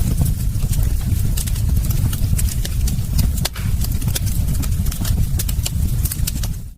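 Wood fire in a fireplace crackling and popping: irregular sharp snaps over a steady low rumble of the burning logs.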